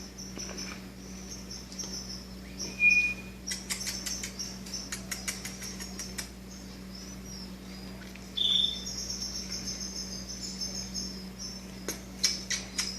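Canary nestlings begging to be fed: a high chirring throughout, with fast runs of sharp cheeps from about three and a half seconds in and again near the end. Two short clear call notes, the loudest sounds, break in at about three seconds and eight and a half seconds.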